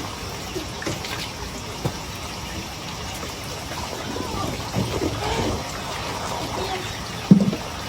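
Water trickling and splashing steadily, with a few light clicks and one sharp knock near the end.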